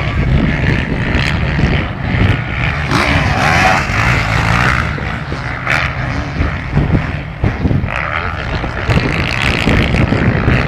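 Several motocross bikes racing, their engines revving up and down in turn as they pass.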